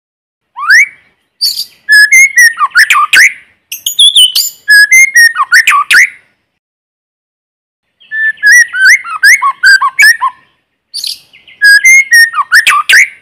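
White-rumped shama singing: five loud phrases of rich gliding whistles and quick chirps, the first a single short rising whistle, each phrase broken off by a short silence, with no background noise between them.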